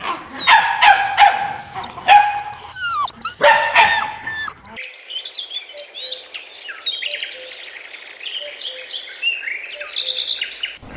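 A dog barking repeatedly for about the first five seconds, then a sudden cut to many small birds chirping, short high calls overlapping.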